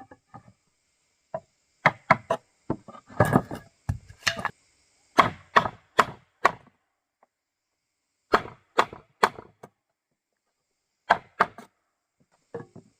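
Hard blows on wood from a hand tool, sharp and separate strikes in irregular groups of two to four with short pauses between.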